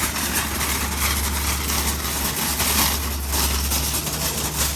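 An engine running steadily under a loud, even rushing noise, with a constant low rumble.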